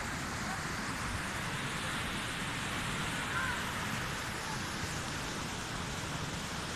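Flash-flood water rushing in a steady, even torrent.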